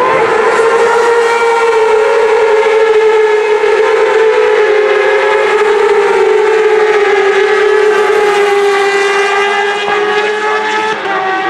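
1000cc superbike engines held at high revs through a straight: a loud, steady, high-pitched note that drifts slowly lower and eases slightly near the end.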